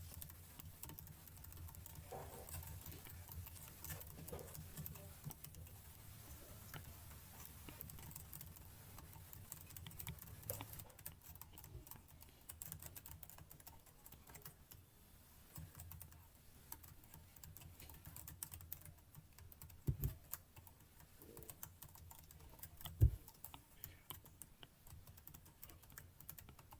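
Faint, irregular clicking of computer keyboard keys being typed, with two louder low thumps about three seconds apart in the second half.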